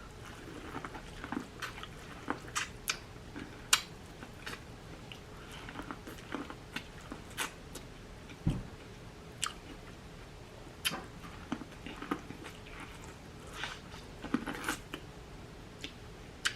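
Close-up eating sounds from a seafood boil: chewing and biting with many short, irregular wet mouth clicks and smacks.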